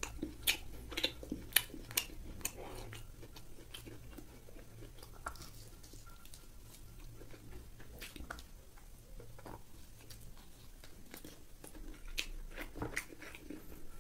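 Close-miked chewing and biting of fried pork: sharp, crunchy clicks come thick in the first few seconds and again near the end, with quieter chewing in between.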